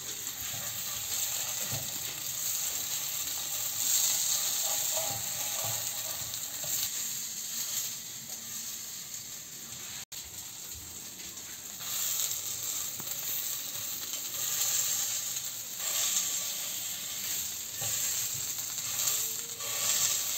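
Battered cutlets sizzling steadily as they fry in oil in a frying pan. The sound breaks off for an instant about halfway.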